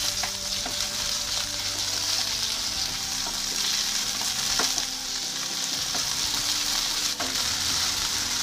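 Peeled shrimp sizzling in hot oil in a frying pan, turned with a wooden spatula: a steady sizzle with a few light taps and scrapes of the spatula against the pan.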